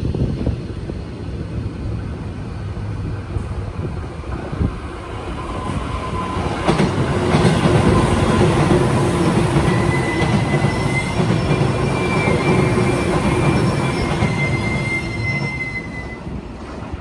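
A Tobu 10030 series electric train of two coupled sets passes through the station without stopping. The rumble of its wheels on the rails swells about six seconds in, holds, and fades near the end. A thin, steady, high squeal sounds through its second half.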